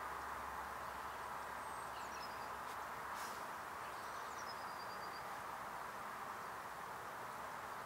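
Steady outdoor background noise, with a small bird's high, thin call heard twice: a high note dropping into a quick run of short notes, about two seconds in and again about five seconds in. A couple of faint clicks fall around three seconds in.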